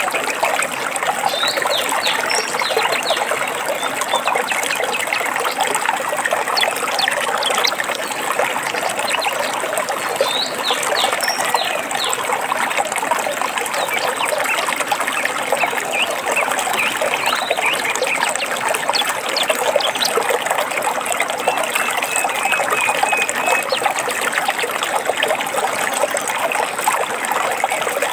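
Stream water trickling and babbling steadily, with a few short bird chirps and a brief run of calls over it.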